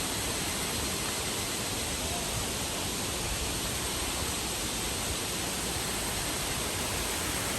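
Waterfall: falling water running with a steady, even rush.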